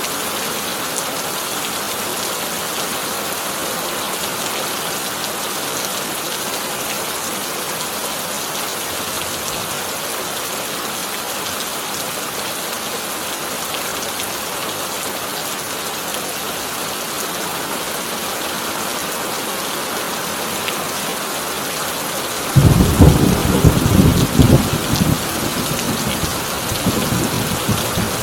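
Heavy rain drumming steadily on a corrugated tin roof; about three quarters of the way through, a thunderclap breaks in suddenly as a loud, low rumble that rolls on for several seconds.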